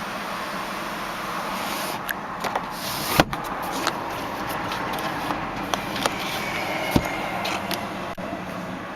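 Scattered clicks and knocks of handling inside a car's cabin, with a sharp knock about three seconds in and another about seven seconds in, over a steady hiss.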